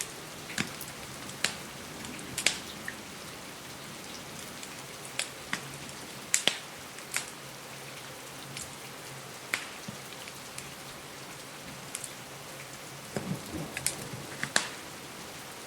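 Steady hiss of rain against a window mixed with a crackling wood fire: irregular sharp pops and ticks, one or two a second, with a denser cluster of pops near the end.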